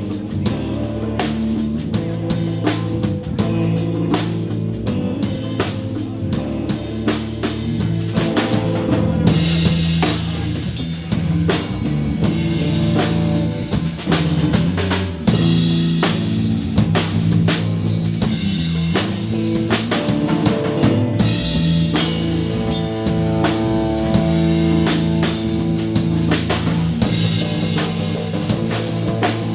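Live blues band playing: a drum kit keeping a steady beat under guitar.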